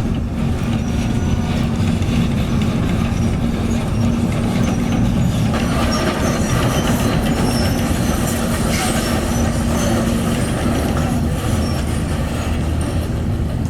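Diesel engine of heavy construction equipment running steadily at working speed, with a few short high metallic squeaks partway through.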